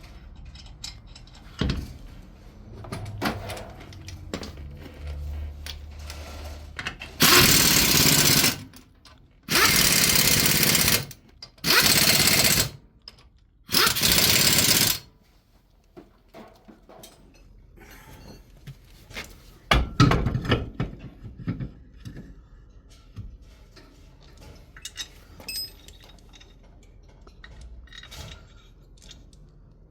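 A power tool run in four short bursts during car repair work, each burst about a second long, with scattered metallic clicks and knocks of tools between them.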